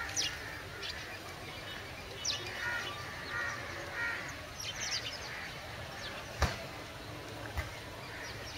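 Birds chirping and calling in short, quick, high notes over a steady background hum, with one sharp knock about six and a half seconds in.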